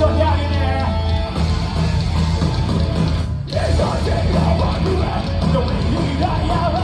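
Live heavy metal band playing loud, with distorted guitars, drums and bass. The music breaks off for a moment about halfway, then comes back in with wavering vocals.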